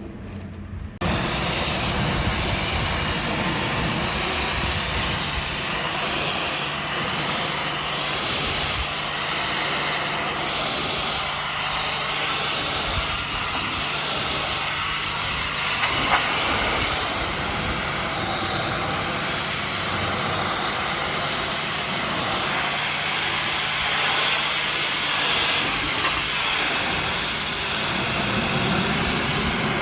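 High-pressure water jet spraying against a truck's body, starting abruptly about a second in as a loud, steady hiss whose tone shifts as the nozzle sweeps, over the steady hum of the pressure-washer pump.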